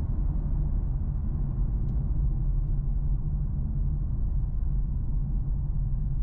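Infiniti Q50 3.7's VQ37 V6 through a custom stainless exhaust (X-pipe, Flowmaster FX mufflers, catalytic converters kept), heard from inside the cabin with the windows up while cruising. It holds a steady, deep, low drone with no revving.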